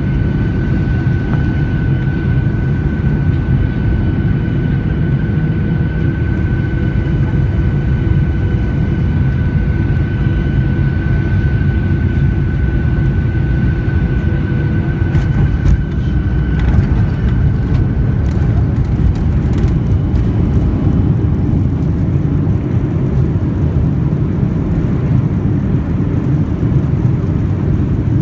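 Airliner landing, heard as a steady loud rumble with a thin high whine over it. The whine fades out a little past halfway, while a cluster of clicks and knocks sounds.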